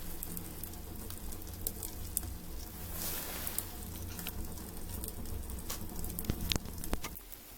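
Firewood burning in a homemade garage stove-fireplace, crackling with scattered pops over a steady low draft noise as air is pulled in through its nozzles.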